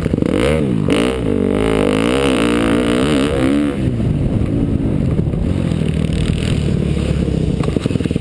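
2012 KTM dirt bike's engine revving up and down quickly several times, then running steadier at lower revs from about halfway through.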